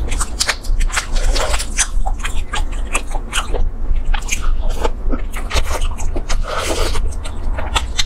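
Close-miked chewing and biting of roasted chicken leg meat: a quick, unbroken run of mouth smacks and clicks over a steady low hum.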